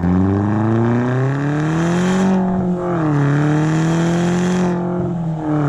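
Car engine accelerating, its pitch climbing and then dropping sharply twice, as if shifting up through the gears.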